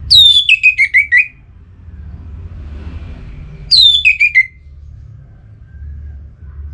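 Orange-headed thrush (anis merah) singing: two short phrases, each a quick run of clear notes falling in pitch, one at the start and another a few seconds later, over a low steady background rumble.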